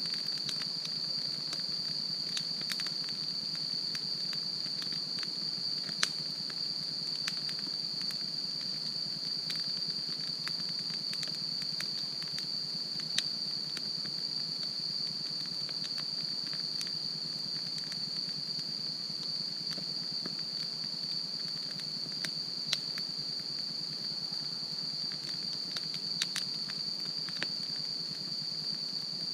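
Wood fire burning, crackling with occasional sharp pops, over a steady high-pitched hum.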